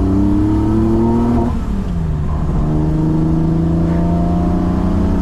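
BMW M30B35 3.5-litre straight-six with individual throttle bodies and a full exhaust, heard from inside the E28's cabin, accelerating at part throttle. The revs climb, drop at a gear change about a second and a half in, then climb again through the next gear.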